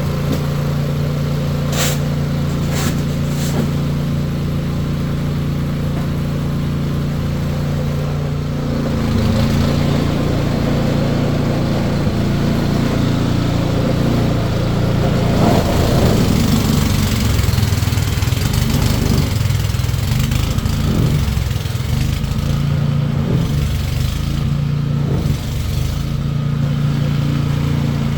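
An engine running steadily; about nine seconds in its note shifts and it grows louder, as if under more load or revving.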